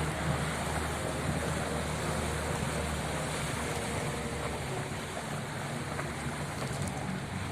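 Engine of a wooden abra water taxi running steadily underway, a low hum under rushing water and wind on the microphone.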